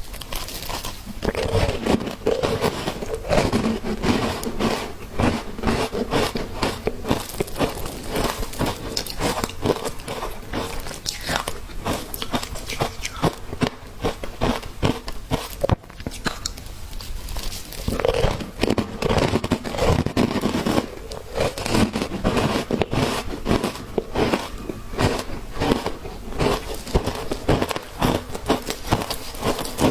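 Ice being bitten and chewed, a dense run of crisp crunches and cracks close to the microphone, with a brief pause about halfway through.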